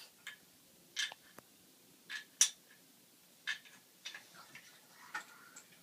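Light clicks and clacks of pencils being picked up and dropped into a toy truck, about a dozen separate knocks at irregular intervals, the sharpest about two and a half seconds in.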